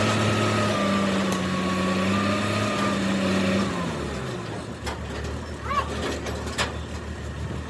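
A motor or engine running at a steady pitch, then winding down and stopping about three and a half seconds in, followed by workshop clatter with a few sharp knocks.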